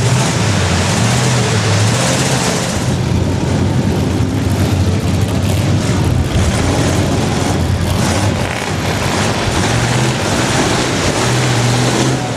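Loud truck engine running hard at high revs, a steady low drone under dense engine and exhaust noise.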